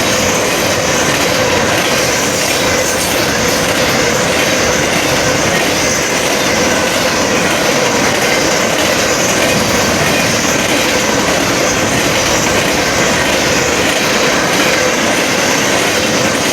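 Train cars rolling past close by: a loud, steady, unbroken rush of wheel-on-rail noise.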